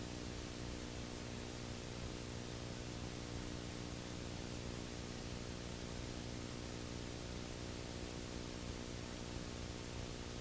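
Steady electrical hum with many evenly spaced overtones under a constant hiss, with no other sound: the noise floor of an old tape recording.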